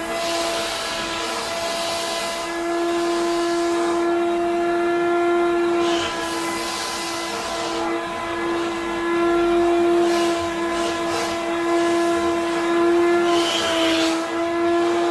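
Wet vacuum cleaner running with a steady motor whine. Its rush of air swells and fades several times.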